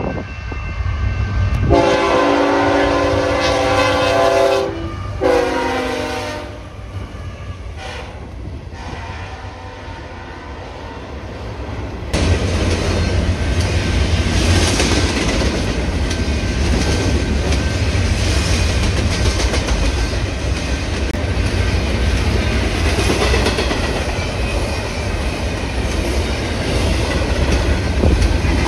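BNSF diesel locomotive's multi-tone air horn sounding a long blast and then a shorter one for the grade crossing, the second dying away. Then a double-stack container train rolling past close by: a loud, steady rumble of wheels with clickety-clack over the rail joints.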